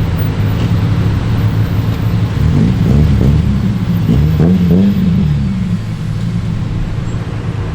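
Car engine running, its pitch rising and falling several times between about two and a half and five and a half seconds in, as from light revving or a car moving off.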